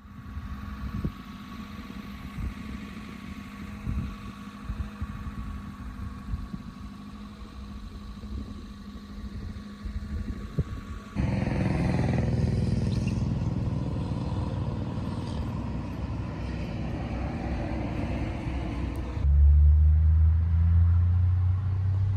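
Motor vehicle sounds across three cut clips: first a faint steady hum with scattered clicks, then a louder rumble from about 11 s in, and from about 19 s in a strong steady low engine drone.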